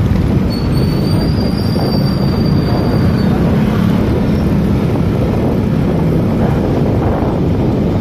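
Motorcycle riding noise: a steady rumble of engine and wind, with a thin high squeal from about half a second in until about three seconds in.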